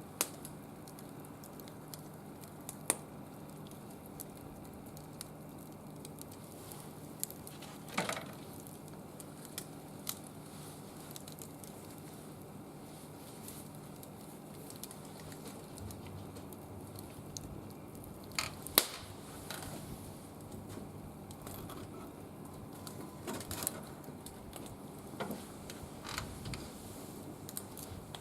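Wood fire burning in a Captain Stag barbecue grill: a low steady hiss with scattered sharp crackles and pops, the loudest about two-thirds of the way through.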